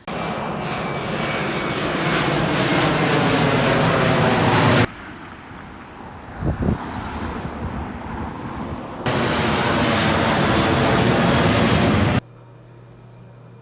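Loud aircraft engine noise, rising in the first stretch and broken by abrupt cuts: a quieter stretch with a brief burst in the middle, then loud again until about a second before the end, leaving a low steady hum.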